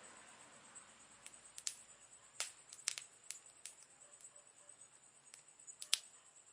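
Campfire crackling: irregular sharp pops and snaps from the burning wood, about ten in all, the loudest one near the end, over a faint steady high hiss.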